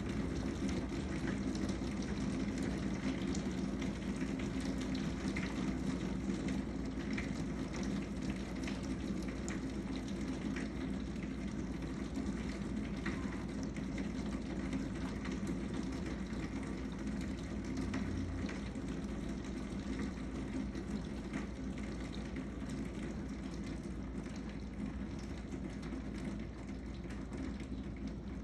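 Heavy rain in a downpour, with gutters overflowing and water pouring off them in a steady rushing splash, scattered with sharp drop impacts. The gutters cannot carry the volume of rain. The sound eases slightly near the end.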